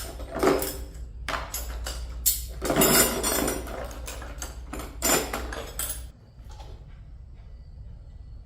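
Metal tools and motorbike parts clattering and knocking as they are handled. There is a run of sharp clanks over the first six seconds, then only a few faint ticks.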